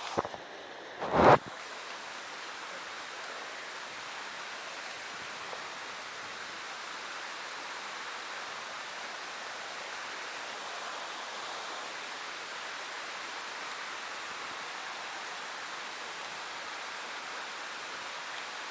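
Steady rushing of a large waterfall, with one short, loud thump about a second in.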